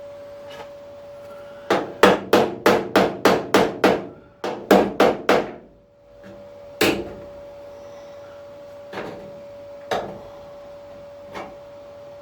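Hammer blows on car body sheet steel: a quick run of about a dozen strikes, roughly four a second, then four single blows a second or two apart, over a steady hum.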